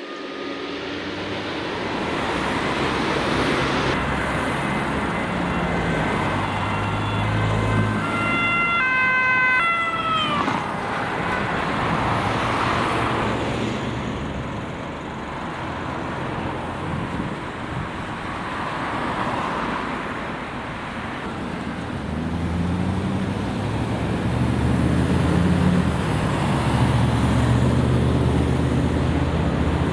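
Emergency vehicles driving on a call: a siren with stepped tones that falls away about ten seconds in, over heavy engine rumble and road noise that grow louder again near the end.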